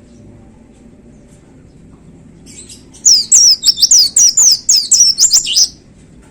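A pleci (white-eye) sings a loud 'tembakan' burst about three seconds in: a rapid run of high, sharply falling notes lasting under three seconds.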